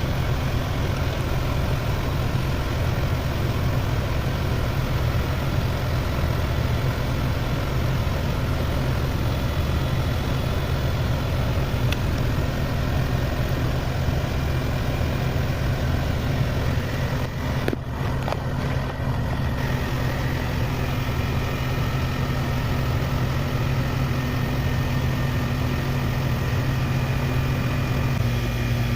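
Heat pump running steadily in heat mode with an even low hum, run this way to thaw its iced-up coil.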